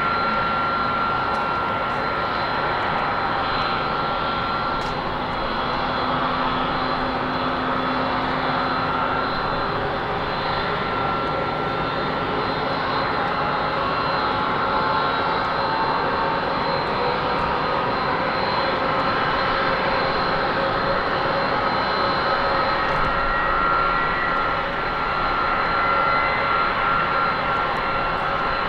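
Boeing 747-400 freighter's jet engines running steadily, a dense rush with a high-pitched whine, some of the whine tones slowly rising in pitch in the second half.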